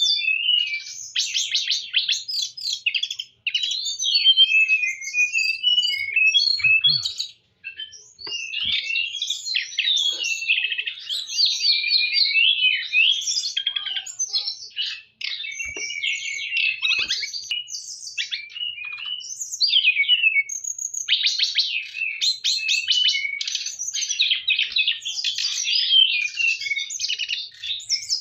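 A songbird in full, vigorous song: a long, fast run of varied chirps, trills and whistles, broken by only a few short pauses.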